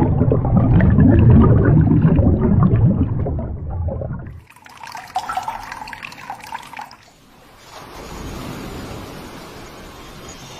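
Running water: loud and dense for about the first four seconds, then a sudden drop to a softer, steady rushing hiss.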